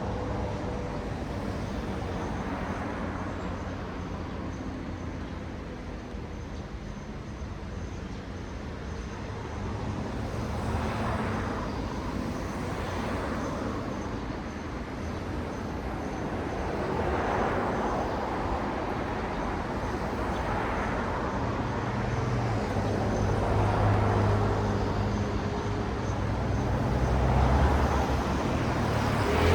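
Road traffic: cars passing one after another, each one swelling and fading over a steady tyre-and-engine rumble. A heavier engine's low hum sits under it in the second half.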